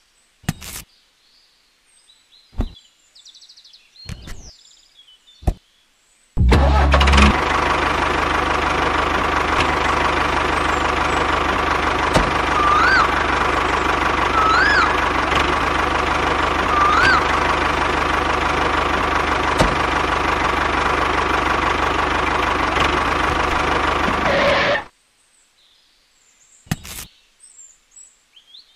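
Tractor engine starting with a heavy thump about six seconds in, running steadily, and cutting off suddenly near the end. Three short rising-and-falling chirps sound over it in the middle. A few faint clicks come before and after it.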